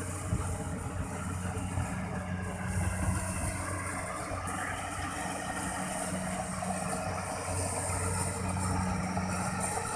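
Kubota rice combine harvester's diesel engine running steadily: a constant low hum with a higher hiss above it.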